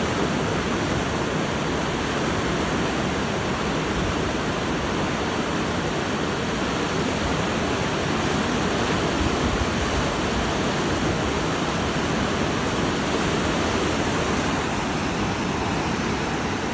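Mountain river rapids: white water rushing over rocks in a steady, unbroken roar.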